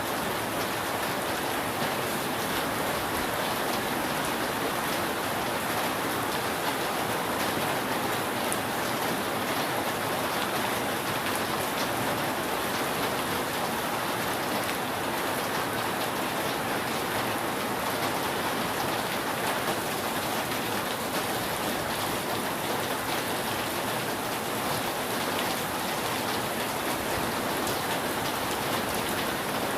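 Steady rain falling on a roof, an even patter with no thunder.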